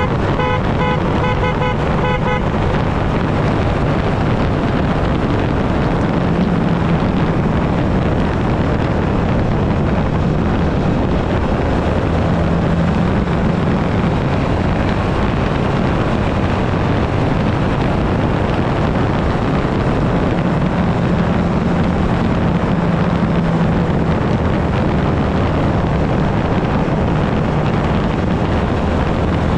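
Yamaha Ténéré 700's parallel-twin engine running steadily under way, with wind rush over the microphone; the engine note lifts slightly a few times. During the first two seconds or so a horn sounds in a quick series of short beeps.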